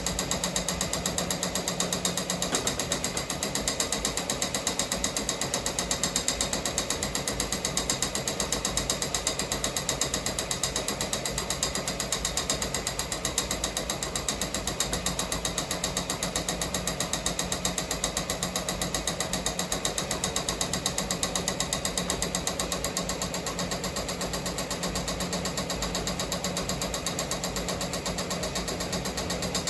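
Ricoma MT-1501 15-needle embroidery machine stitching at speed: a fast, steady, rhythmic mechanical clatter of the needle drive, a little quieter from about 23 seconds in.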